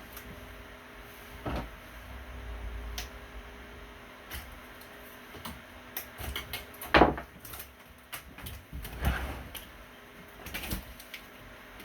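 Scattered knocks, clicks and rustles of things being handled, with the loudest a sharp knock about seven seconds in and another near nine seconds.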